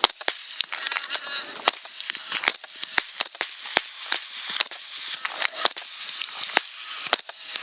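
Heavy rain: a steady hiss with sharp, irregular drop hits on the microphone or gear, about two or three a second.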